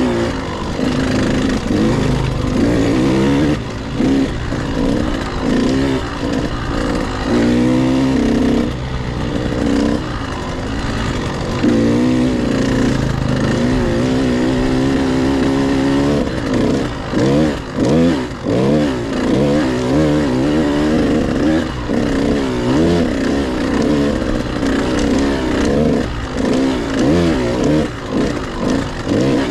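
Husqvarna TC 85 two-stroke motocross bike engine being ridden, heard from the rider's helmet. Its pitch rises and falls again and again as the throttle is opened and closed through the gears.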